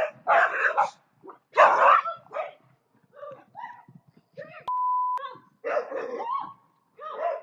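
A dog barking and yelping in a quick run of short cries, with a steady half-second beep about five seconds in.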